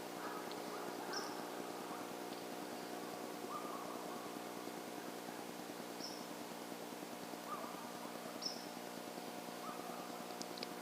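Short bird calls repeating every second or two, some high and thin and some lower and rising, over a steady faint hum.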